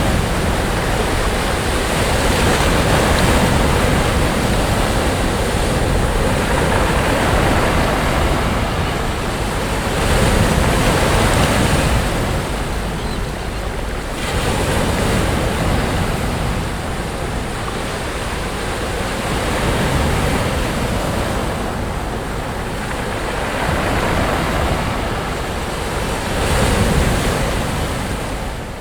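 Sea waves breaking on a beach: a continuous wash of surf that swells and eases every few seconds, with wind rumbling on the microphone.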